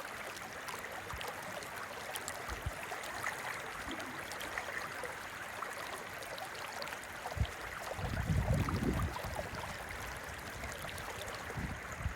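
River water flowing steadily, an even rushing hiss. About eight seconds in, a low rumble lasts for about a second.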